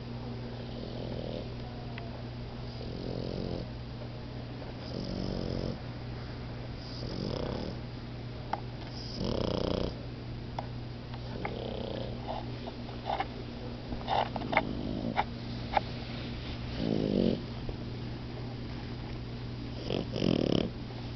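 Sleeping French bulldogs snoring, one snore every two to three seconds, with a run of short clicking snorts in the middle. A steady low hum runs underneath.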